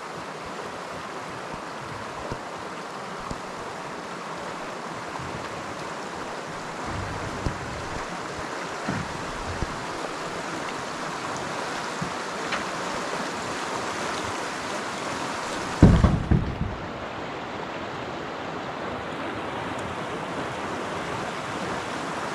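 Steady rush of water from the dam and creek. About three-quarters of the way through, a loud low buffet of wind hits the microphone.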